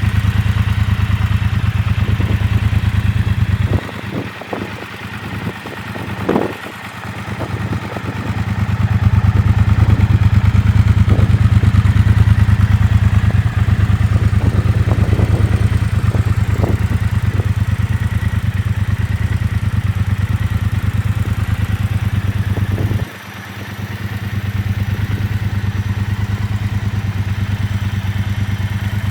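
Triumph Bobber Black's 1200 cc parallel-twin engine idling steadily, with a few scattered clicks and knocks. The engine sound drops suddenly about four seconds in and again about 23 seconds in, each time building back up over a few seconds.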